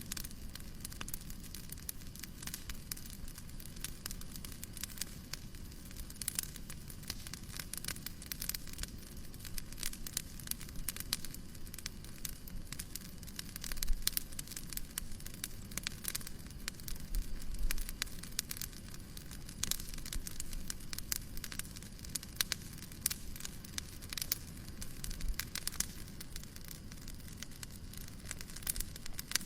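Wood fire crackling: irregular sharp pops and snaps over a steady hiss of white noise, with a few louder, deeper pops about halfway through.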